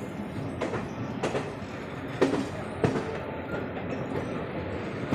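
Passenger coach of an Indian Railways superfast express running along the track. There is a steady rumble, with irregular clacks and knocks as the wheels cross rail joints; the loudest come a little after two seconds and just before three.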